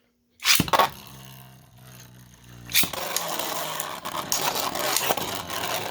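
Two 3D-printed Beyblade spinning tops launched into a plastic stadium, with a sharp rip from the launchers about half a second in. The tops spin with a steady whir, then strike each other about three seconds in and keep clattering and scraping together with many quick hits.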